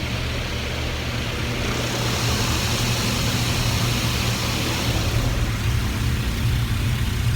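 Automatic car wash rinse: water spraying onto the car, heard from inside the cabin, a steady hiss that swells for a few seconds in the middle, over a constant low hum.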